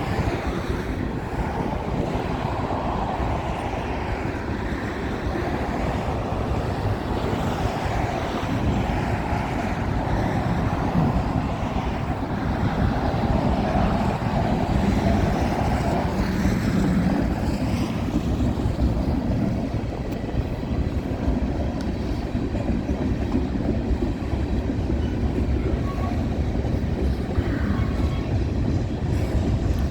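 Freight train cars rolling past steadily, wheels running on the rails, with no let-up.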